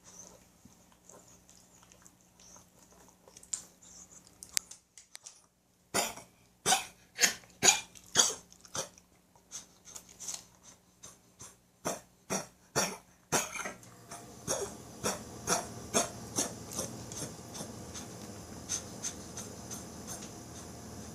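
A dog's coughing fit: a run of loud, sharp hacks about two a second for several seconds, after which it gives way to a steady hiss with fainter clicks. This is the dog's recurring cough, which its owner wonders may come from allergies.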